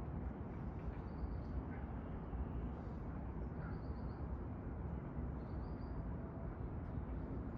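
Outdoor ambience: a steady low rumble with faint, short, high bird chirps every second or two.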